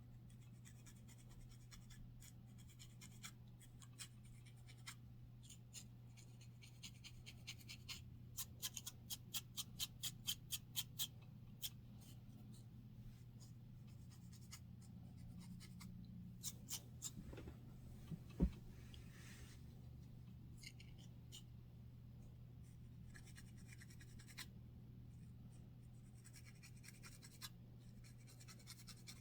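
Dandruff being scratched loose from a scalp: short, quick scraping strokes in runs, at about four a second at their busiest, with one sharper click about two-thirds of the way through. A faint steady hum lies underneath.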